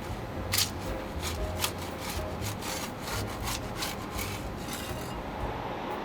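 Quick abrasive rubbing strokes, about three a second, as of sanding or filing a part by hand; they stop about five seconds in. A steady low hum runs underneath.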